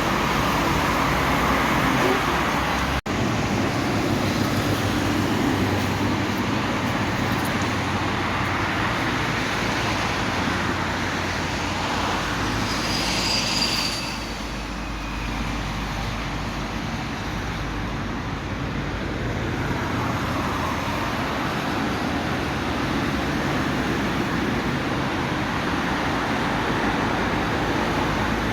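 Steady road traffic on a busy multi-lane highway, a continuous rush of passing vehicles. The sound cuts out for an instant about three seconds in, and a short high-pitched squeal rises over the traffic about halfway through.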